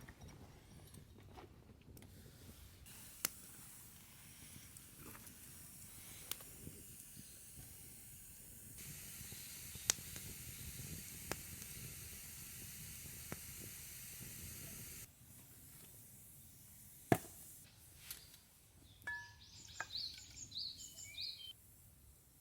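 Wood campfire crackling with sparse sharp pops. A steady hiss sets in about nine seconds in and cuts off suddenly some six seconds later. A bird chirps a few times near the end.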